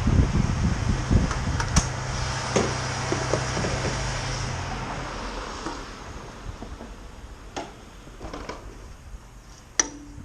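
Motorcycle engine idling with a steady low hum, cut off about five seconds in. Scattered clicks and knocks follow, with a sharp click near the end.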